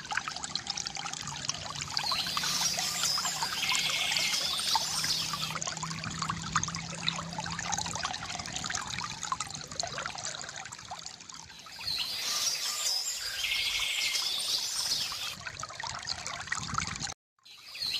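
A small stream trickling and splashing steadily, with a songbird singing the same phrase twice, a couple of seconds in and again about twelve seconds in. The sound cuts out abruptly for a moment near the end.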